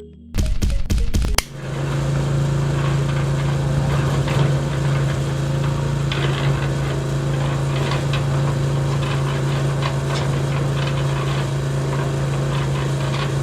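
Small motor running steadily with a low hum and light ticking. It follows about a second of loud clattering at the start.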